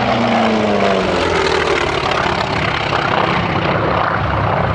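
Piston-engined propeller aircraft flying past at an air display. Its engine note falls in pitch over the first couple of seconds as it goes by.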